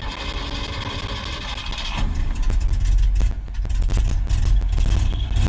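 1973 Ford F-250's 360 V8 engine running, getting louder and heavier about two seconds in as it takes more throttle. It runs poorly: the owner says it only runs on the idle jets, has no power, and the choke sticks on.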